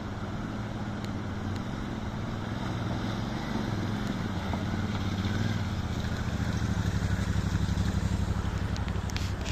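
Motorcycle engine running while riding, slowly getting louder, with a few sharp clicks near the end.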